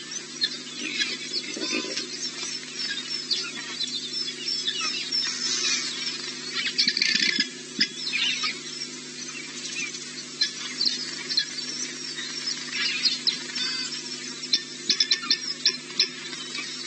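Small birds chirping and calling over a steady low hum, with a quick run of sharp clicks near the end.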